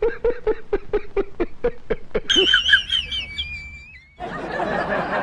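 A quick run of laughter, about seven short even bursts a second, for about two seconds. It is followed by a warbling high tone that slides down, and then a noisy din begins about four seconds in.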